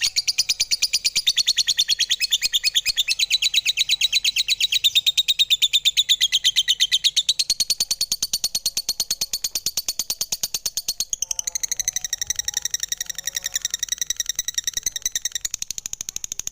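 Lovebird chirping: a fast, even run of shrill, high chirps, many a second, that changes to a different chattering pattern about two-thirds of the way through.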